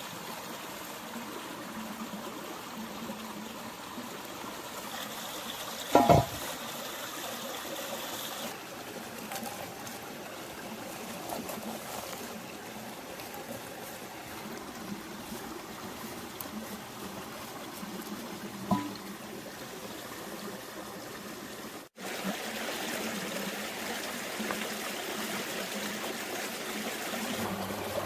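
A stream trickling steadily. One brief loud sound about six seconds in, and a smaller one near nineteen seconds.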